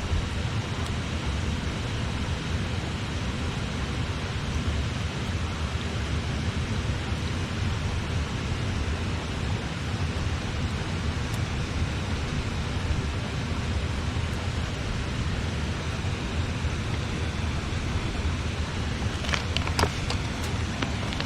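Steady rush of river water, with a campfire crackling; a few sharp pops and snaps from the fire near the end.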